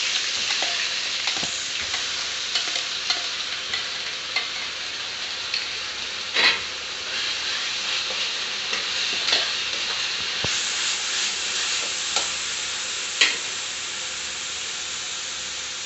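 Freshly added wet onion-tomato paste sizzling steadily in hot oil in a steel kadai, with a spatula scraping and tapping against the pan now and then. The sharpest taps come about six and about thirteen seconds in.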